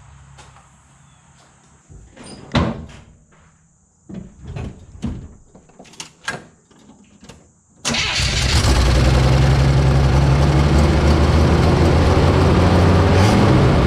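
A few scattered knocks and clicks, then about eight seconds in the Chevy 250 inline-six engine of a 1981 C10 pickup starts and settles into a loud, steady idle, freshly fitted with a new water pump.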